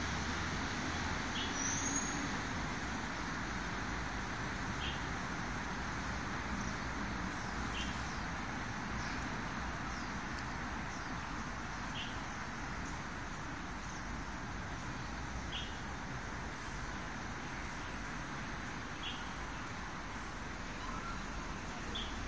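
A bird repeating a short chirp about every three to four seconds, over a steady background noise of traffic.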